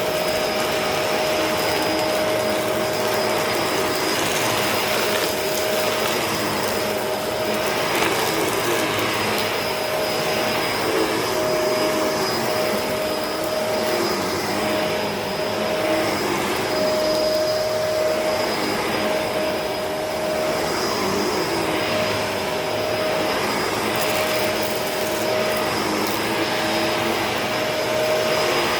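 Upright vacuum cleaner running steadily with a constant whine as it is pushed over a dirty carpet, drawing up dirt and grass.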